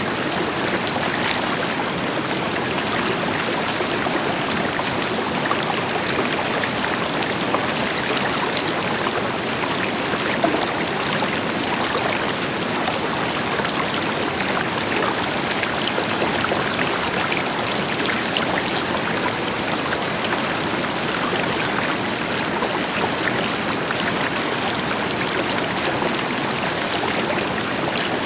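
River water flowing steadily over rocks, an even rush with small splashes and trickles, blended with the deeper rush of a distant waterfall.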